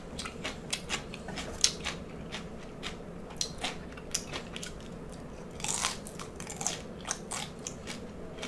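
Crunchy chewing and biting of deep-fried salt and pepper shrimp with the shell on: many short, crisp crunches at an irregular pace.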